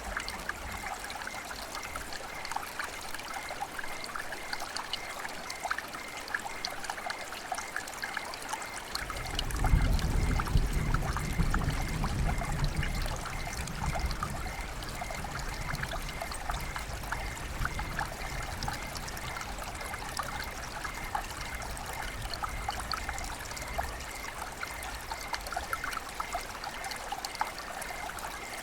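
River water flowing with a steady trickling babble. About nine seconds in a low rumble joins it, loudest for a few seconds, then easing to a softer rumble that fades out.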